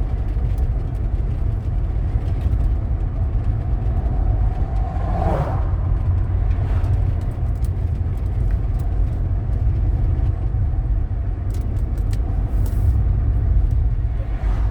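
Car road and engine noise heard from inside the cabin while driving: a steady low rumble, with a brief higher sound about five seconds in.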